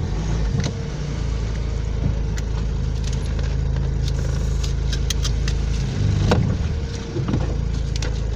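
Car idling at a standstill, heard from inside the cabin: a steady low engine hum with scattered small clicks and rattles, and a brief louder swell about six seconds in.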